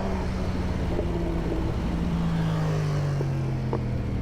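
Harley-Davidson Breakout's V-twin engine running steadily under way, heard from the rider's seat over rumbling road and wind noise; the engine note eases down slightly in pitch around the middle.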